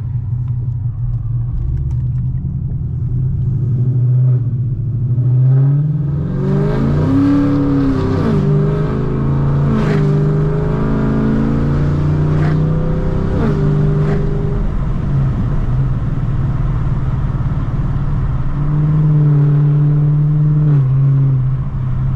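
Straight-piped Chevrolet Camaro V8 exhaust under way. It runs steadily at first, then from about six seconds in it climbs in pitch as the car accelerates, dropping back at each upshift, and settles to a steady cruise.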